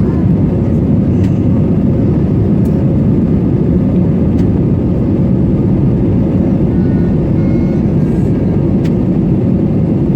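Steady low rumble of an Airbus A320neo's engines and airflow, heard from inside the passenger cabin in flight, with a faint even hum above it.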